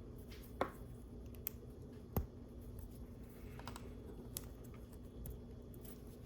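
Scattered light plastic clicks of LEGO bricks being handled and pressed together, a few sharp snaps about half a second and two seconds in, over a faint steady room hum.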